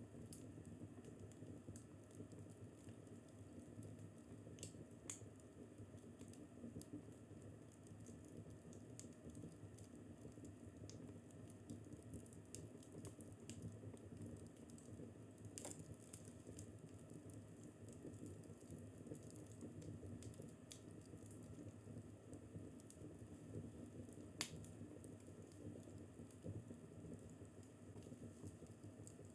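Faint crackling fireplace: a low steady rustle of burning wood with scattered sharp pops and snaps, a few seconds apart, the loudest about 24 seconds in.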